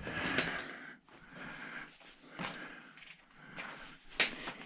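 Irregular handling and scuffing noises from working over the dishwasher motor at the bench, with one sharp knock a little after four seconds in.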